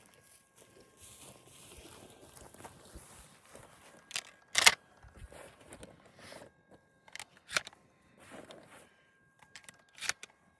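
Rustling, then a few sharp metallic clicks, the loudest about halfway through, from handling a Benelli M2 20-gauge shotgun and its shells.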